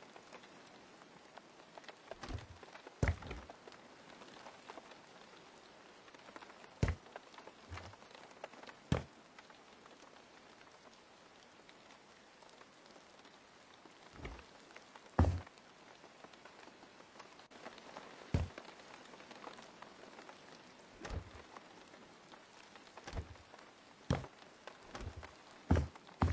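Scattered light knocks and taps at irregular intervals, some with a dull low thump, over a faint steady hiss.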